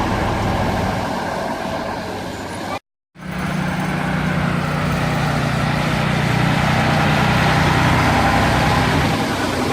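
A heavy vehicle's engine running steadily. The sound drops out completely for a moment about three seconds in, then a steady low drone carries on.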